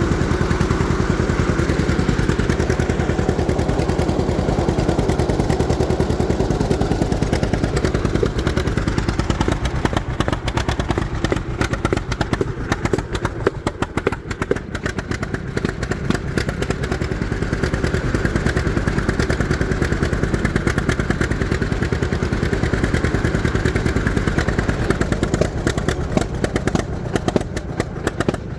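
A propane-fuelled John Deere Model A tractor's two-cylinder engine running under way, its exhaust beats rapid and even. The engine eases off about a third of the way in, picks back up, and eases again near the end. It is running lean, nearly out of propane.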